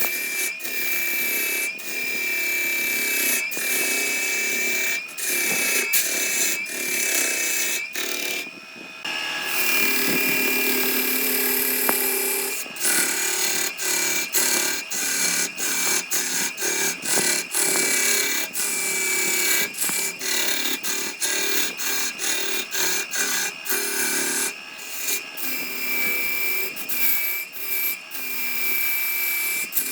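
A power tool running with a steady high whine, broken up again and again by short gaps and changes in its sound.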